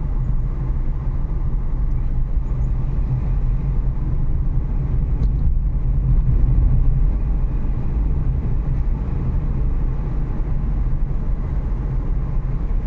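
Renault Kiger on the move, a steady low rumble of engine and road noise at constant speed.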